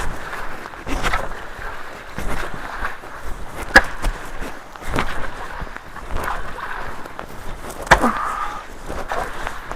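Running water with irregular splashes and knocks, the sharpest about four and eight seconds in, as debris is worked loose from a clogged culvert.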